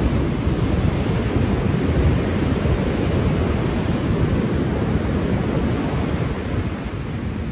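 Ocean surf washing continuously, a steady dense rush of waves that is heaviest in the low range.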